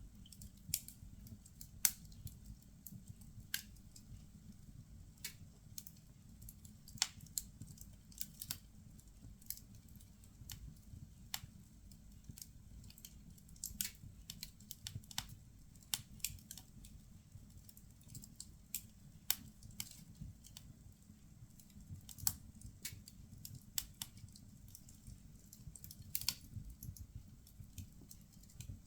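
Firewood burning in a fireplace, crackling with sharp pops at irregular moments over a low steady rumble.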